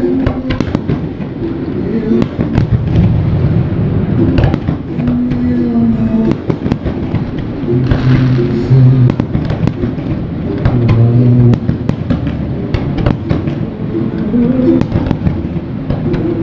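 Fireworks bursting, with many irregular bangs and crackles over music with held low notes.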